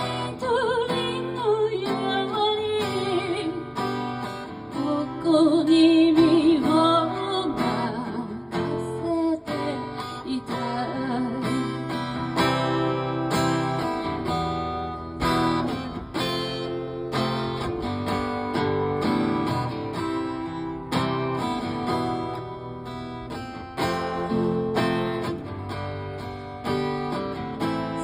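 An acoustic guitar is strummed and picked through a song, with a voice singing over it in places.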